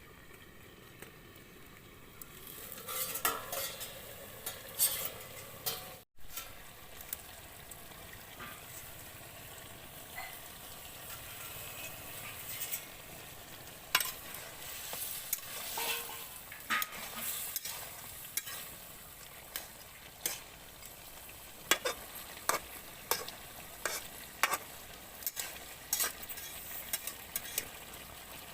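Food frying and sizzling in a pan for the chicken curry, stirred with a spoon that scrapes and clinks sharply against the pan over and over. The sizzle grows louder about two and a half seconds in.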